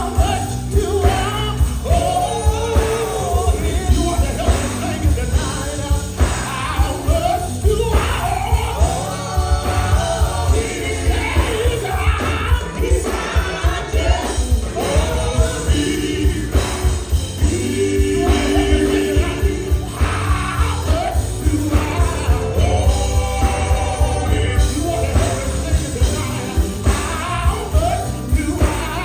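Live gospel music: a group singing with a band, over heavy bass and a steady driving beat.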